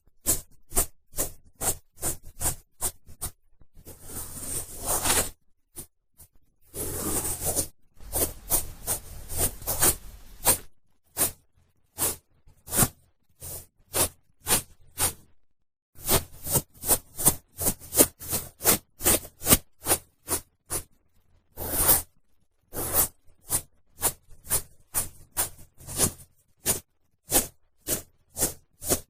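Cotton swab rubbing and twirling in an ear, picked up close on a binaural microphone: quick scratchy strokes, mostly two to three a second, broken by a couple of longer rustling swirls in the first ten seconds and short pauses.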